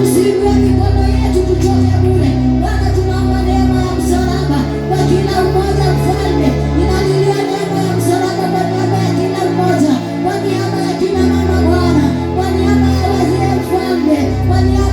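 Church worship music: voices singing over sustained bass chords that change every three to four seconds.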